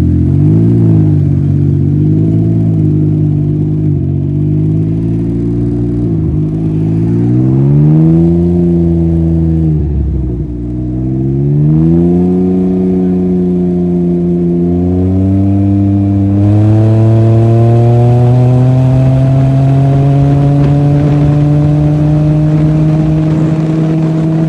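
Can-Am three-wheel motorcycle engine accelerating on the road: its pitch climbs and drops back several times as it shifts through the gears, then rises slowly and steadily over the last several seconds.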